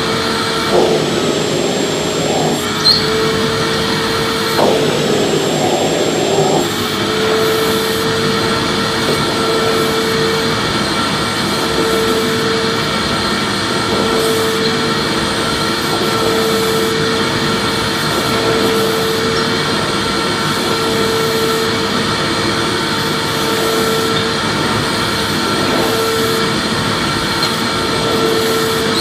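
Vacuum cleaner running steadily: a continuous rush of air over a motor whine, with a few brief bumps and small shifts in pitch in the first several seconds, then even.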